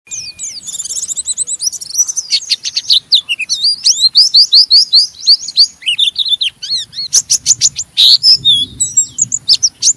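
White-eye (pleci) singing its harsh, fast chattering 'ngeriwik' song: a dense, rapid run of high, sweeping notes.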